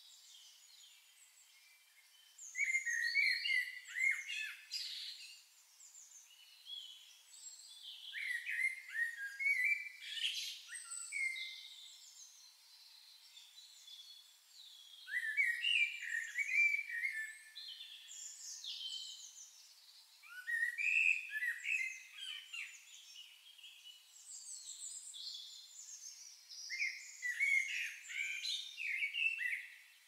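Songbirds singing: bright, high chirping phrases in about five bursts of a few seconds each, with short quieter gaps between.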